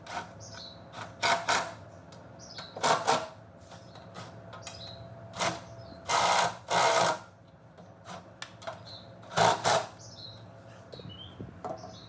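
Workshop tool noise in several short bursts, the longest lasting about a second near the middle, over a steady hum, with birds chirping faintly.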